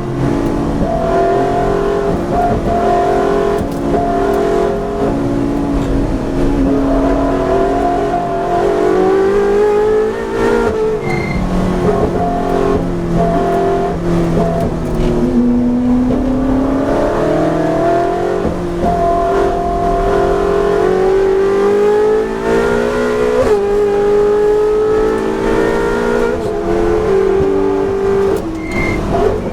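Ferrari 458 Challenge's V8 engine under racing load, the note climbing through the revs and stepping back down several times with gear changes.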